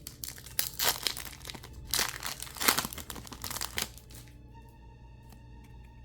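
Foil wrapper of a Pokémon mini booster pack being torn open and crinkled by hand, a run of sharp crackles that stops about four seconds in. Quiet music with held notes then comes in.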